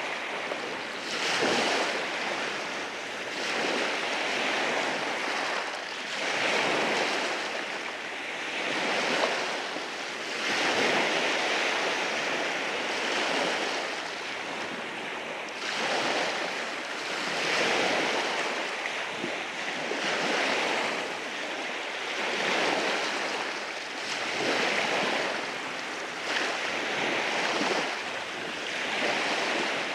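Sea waves breaking and washing over rocks on a beach, a steady rush that swells and falls back in a surge every two to three seconds.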